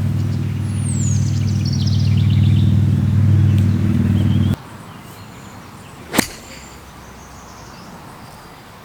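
A vehicle engine running steadily with a low hum, which cuts off suddenly about four and a half seconds in. After it there is quiet outdoor background with a single sharp click, and early on a short falling bird chirp.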